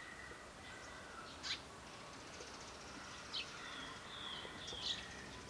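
Small birds calling: three sharp chirps about a second and a half apart, over thin, faint whistled notes.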